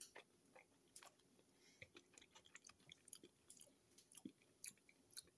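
A person chewing a mouthful of A&W Ruffles Crunch Teen Burger, a burger with potato chips inside. The chewing is faint, heard as many small, irregular clicks and crackles.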